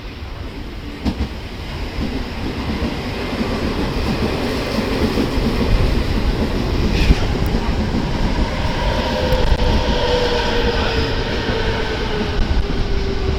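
Train running past along the station track, its wheels clattering over the rail joints and growing louder over the first few seconds. Near the end a drawn-out whine slowly falls in pitch.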